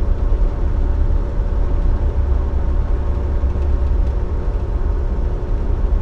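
Dump truck's diesel engine running steadily, heard from inside the cab as a low drone with faint steady tones over it, mixed with road noise at highway speed.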